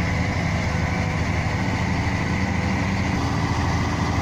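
Heavy diesel engine running steadily at low revs, with an even low pulse.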